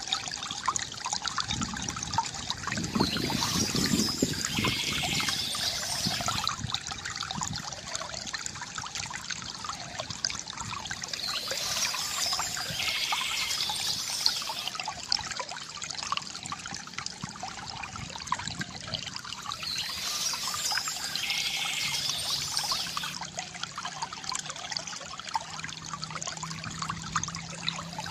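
Water trickling and pouring from a bamboo fountain into a basin, with a fuller gurgling splash a few seconds in. Birds chirp in three spells over the steady flow.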